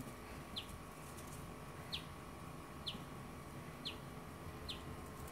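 A bird calling repeatedly: short, high chirps that slide downward, about one a second.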